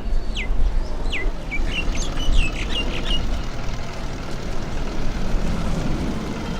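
A bird calling: two quick downward-sweeping whistles, then a fast run of short chirps, over the steady low rumble of city traffic.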